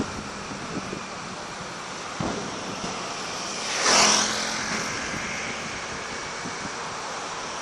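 Fireworks heard over steady open-air background noise: a dull thud about two seconds in, then a louder hissing burst around four seconds in that fades away.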